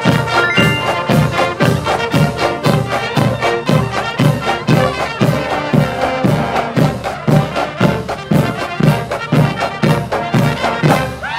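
Marching band playing: brass (trumpets and trombones) over a steady drum beat of about two strokes a second.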